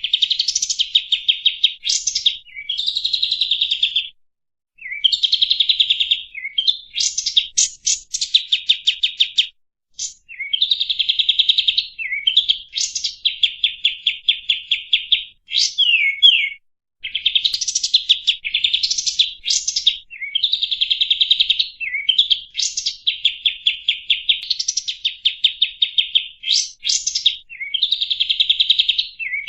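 A songbird singing fast rolling trills: phrases of rapidly repeated high notes, each lasting a second or two, with brief pauses and a few quick swooping notes between them.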